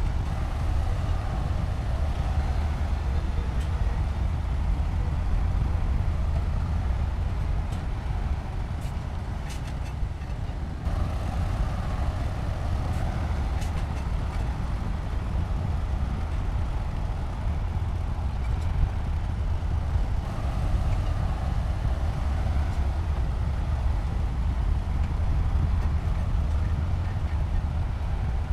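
Diesel engine of heavy earthmoving machinery running steadily under work, a deep continuous rumble that shifts abruptly about eleven seconds in.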